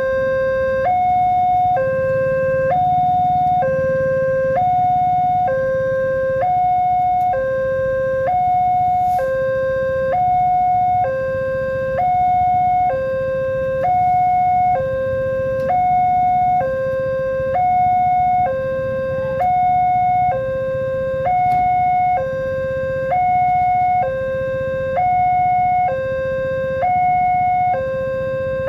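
Level-crossing warning alarm sounding continuously, an electronic two-tone signal alternating evenly between a low and a higher note about once a second, warning that a train is approaching.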